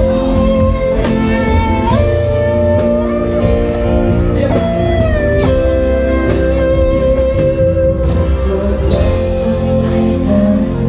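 Rock band playing live, an instrumental passage: a guitar lead holds long notes with pitch bends over the full band.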